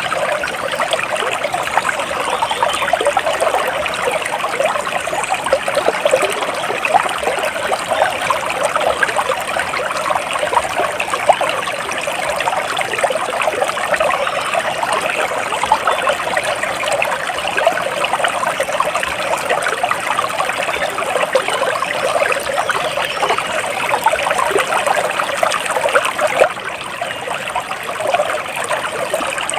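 Water of a small stream trickling steadily over stones, a constant splashing with a slight drop in level near the end.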